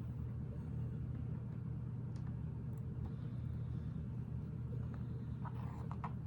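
Steady low hum from an unseen machine or electrical source in the room, with a few faint clicks of small plastic Lego pieces being handled and pressed on near the end.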